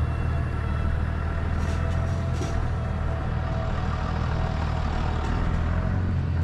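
Motor vehicle engine running steadily with a low, even hum, a few faint clicks over it.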